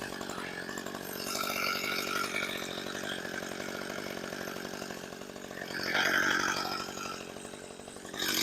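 Gas two-stroke chainsaw running steadily at a moderate distance. It swells louder twice, about a second and a half in and again around six seconds, as it is revved or bites into the saplings.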